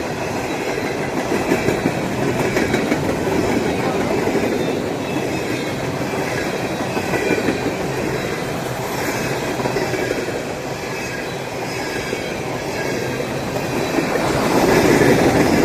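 Freight train cars rolling past steadily on the rails, growing louder near the end.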